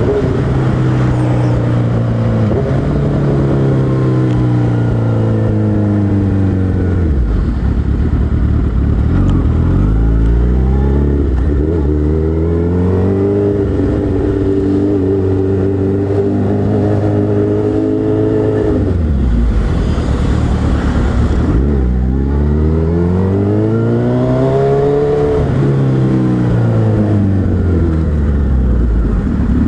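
Suzuki Hayabusa inline-four motorcycle engine riding through slow traffic. Its pitch rises and falls several times as it accelerates and rolls off the throttle, with a brief rush of noise near the middle.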